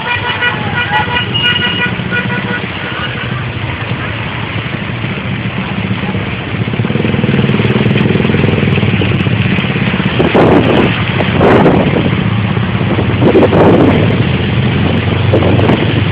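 Motor vehicle engine running steadily with road noise, the engine hum growing louder about six seconds in. A short horn toot sounds near the start.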